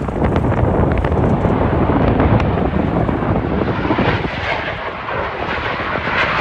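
Jet aircraft flying over, a loud continuous rumble; from about two thirds of the way in, a higher hissing roar builds on top of it as the jet draws nearer.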